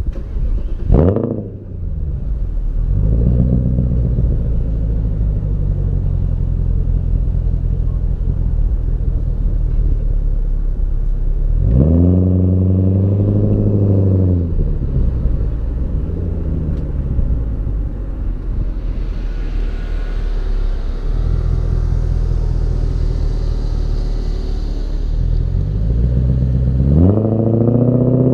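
BMW E39 540i's V8 exhaust heard from the rear. A quick, sharp throttle blip comes about a second in. Then the engine runs steadily, with the revs rising and falling around the middle and again near the end.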